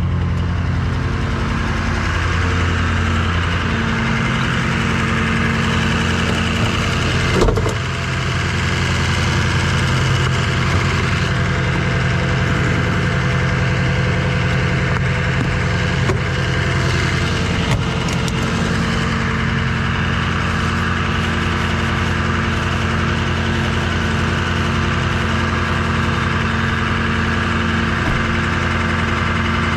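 Rollback tow truck's engine running steadily, with a single knock about seven and a half seconds in and a couple of lighter clicks later.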